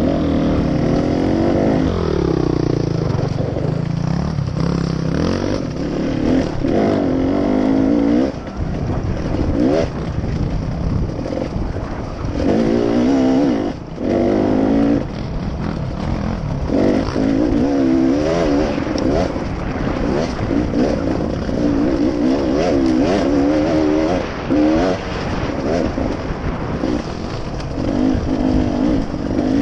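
A vehicle engine under way, its pitch rising and falling as the throttle is opened and closed, with a few brief dips when it is backed off, over a steady rushing noise.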